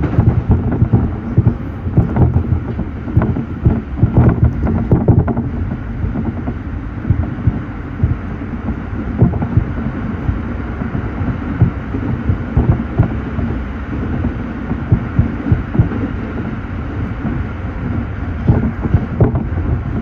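Running noise of a moving train heard from inside the carriage: a steady low rumble with frequent short knocks and rattles.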